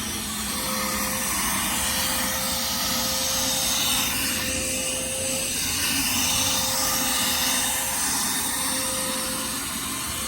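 Steady rushing vehicle noise with a faint steady whine that drops in and out.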